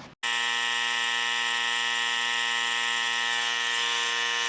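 Bauer 20V cordless hand-held tire inflator switching on just after the start and running steadily: an even, unchanging buzzing hum.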